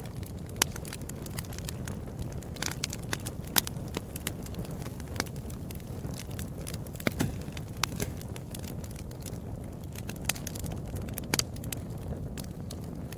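Wood fire in a fireplace crackling: irregular sharp pops and snaps, several a second at times, over a steady low rumble of the flames.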